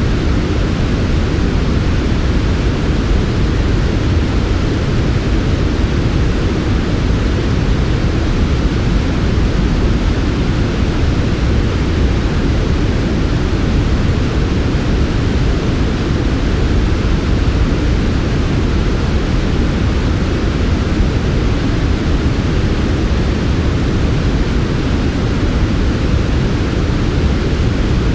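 Steady synthetic white noise for sleep: a soft, smooth, even hiss weighted toward the low end, with no changes in level or character.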